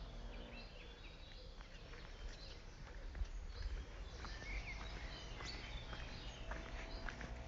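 Small birds chirping on and off in the trees, many short calls, over a steady low outdoor rumble.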